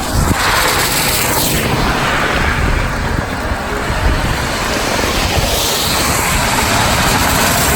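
Steady rush of wind buffeting the microphone, with a heavy low rumble, mixed with the hiss of rain and bicycle tyres running through standing water on a flooded road shoulder.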